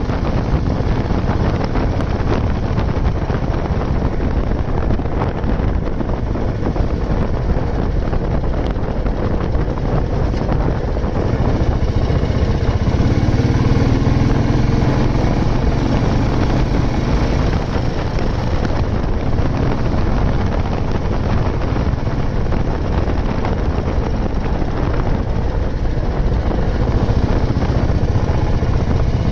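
Old Royal Enfield Bullet 350's single-cylinder engine running steadily on the move, getting a little louder for several seconds in the middle.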